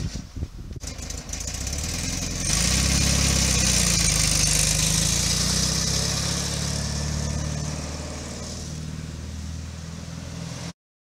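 Air-cooled flat-four engine of a Volkswagen Karmann Ghia pulling away. After a few knocks in the first second, the engine runs and grows louder about two and a half seconds in as the car moves off. It then fades gradually as the car drives away, and the sound cuts off suddenly near the end.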